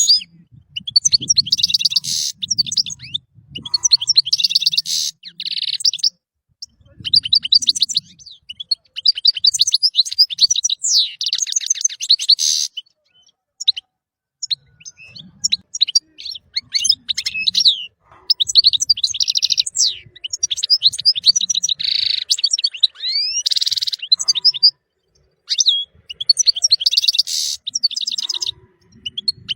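European goldfinch singing: high, rapid twittering and trilling delivered in phrases of one to two seconds, with short pauses between them.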